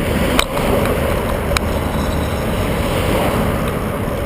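Steady rush of wind on the microphone while riding a bicycle, with two short clicks in the first couple of seconds.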